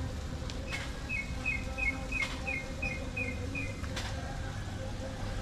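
A bird chirping a quick run of paired high notes, about three pairs a second for nearly three seconds, over a steady low hum with a few sharp clicks.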